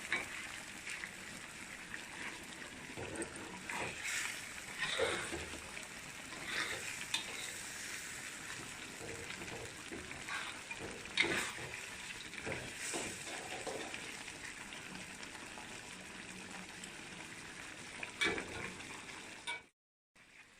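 Chicken curry sizzling in a tawa while a spatula stirs it, with irregular scraping strokes against the pan over a steady sizzle. The sound cuts out suddenly for a moment near the end.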